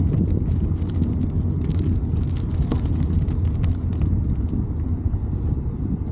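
Steady low rumble of wind buffeting the microphone on a moving bicycle, with scattered light clicks and rattles.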